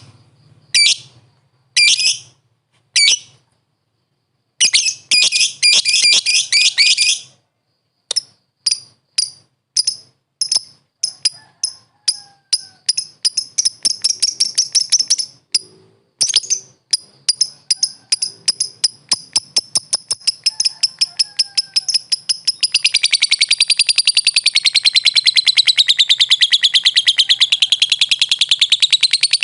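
Lovebird singing: high, sharp chirps, first in short bursts, then a run of single chirps coming faster and faster, breaking about three quarters of the way in into a long, unbroken rapid trill that wavers up and down in pitch.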